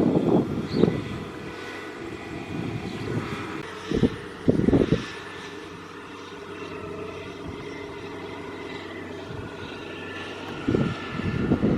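Kubota DC70 Plus combine harvester's diesel engine running steadily as it works, a continuous drone, with brief louder low rumbles about four and five seconds in and again near the end.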